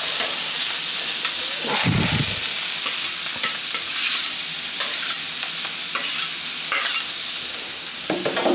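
Sauerkraut with onions and diced bacon sizzling on a hot griddle plate, with a spatula stirring and scraping it now and then.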